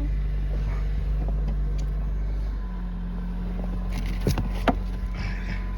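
Car engine running steadily, a low hum whose pitch steps up slightly about two and a half seconds in. Two sharp knocks come near the end.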